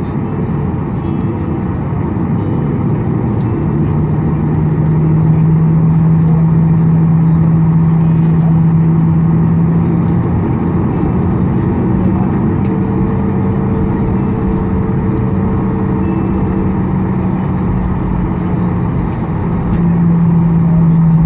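Boeing 737-800 cabin noise while taxiing after landing: a steady rumble from the CFM56 engines at low thrust. A low hum sets in a few seconds in and shifts slightly in pitch twice as the thrust is adjusted.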